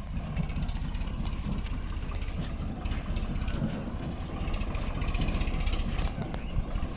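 Tractor engine running steadily, with scattered knocks and clatter over it.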